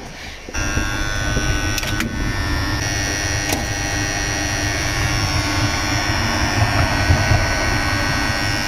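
AC contactors in a street-light control cabinet humming with a steady mains buzz, which starts abruptly about half a second in as the circuit is energised, with a few light clicks soon after. The electrician takes this contactor vibration to be what shakes terminal connections loose until they overheat.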